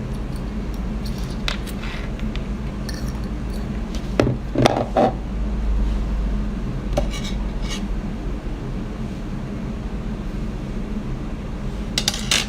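Scattered clicks and clinks of dishes and utensils while seafood is handled and eaten, with a louder cluster of knocks about four to five seconds in and more near the end, over a steady low hum.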